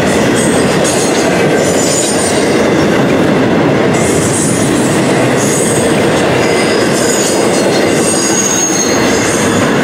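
Double-stack intermodal container cars rolling past at track speed: a steady, loud rumble of steel wheels on rail, with high-pitched wheel squeal coming and going.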